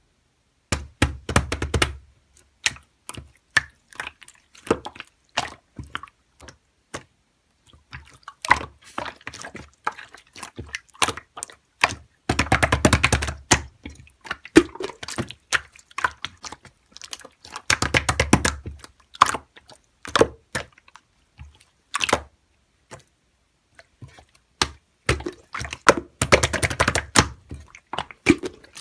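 Slime being pressed and pulled by hand, giving sticky clicks and pops, with a few denser stretches of squelching crackle every several seconds.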